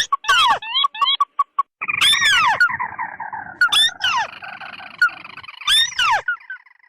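Recorded lure calls of crakes, tikusan merah and tikusan putih combined. Repeated sharp downward-sweeping notes and short clipped notes, with a long harsh buzzing call from about two seconds in until near the end.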